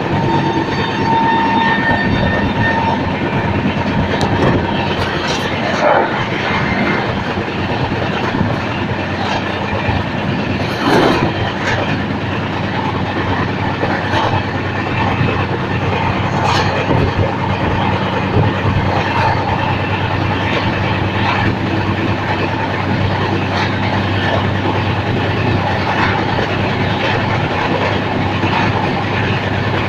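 Passenger train running on the rails: a steady rumble with occasional clicks of the wheels over rail joints. A steady high tone sounds for the first few seconds, then stops.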